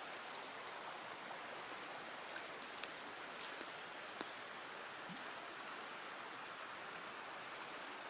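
Faint, steady sound of running water, with a thin high tone coming and going and a few light clicks.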